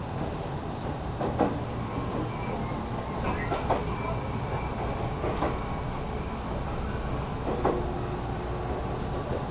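Interior running sound of a JR 313 series 0 electric multiple unit's motor car: a steady rumble of wheels on rail, with four sharp rail-joint clicks about two seconds apart and a faint steady whine.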